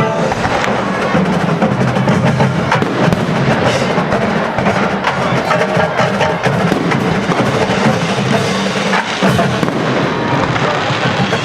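Drum and bugle corps playing: a loud drum line with brass, with dense rapid drum strikes.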